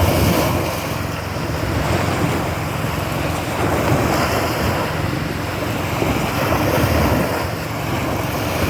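Pumpboat's small 7.5 hp gasoline engine running steadily under way in rough sea, with wind buffeting the microphone and water rushing past the hull. There is a short knock right at the start.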